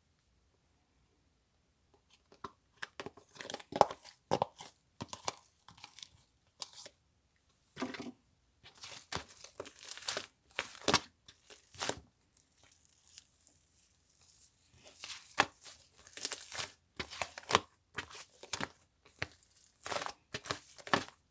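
Paper or plastic wrapping being crinkled and torn close by: a dense run of short rustles and small clicks that begins about two seconds in.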